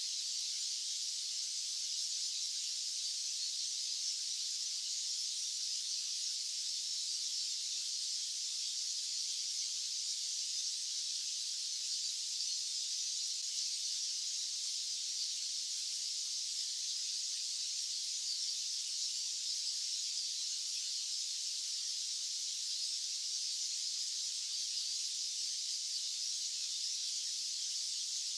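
Steady, high-pitched hiss of a white-noise track, with all its energy in the treble and no low rumble.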